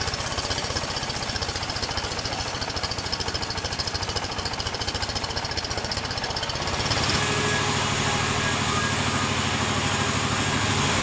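Sawmill machinery running: an engine with a rapid, steady pulse. About seven seconds in the sound changes: a high hiss drops away and a lower, steadier engine note takes over.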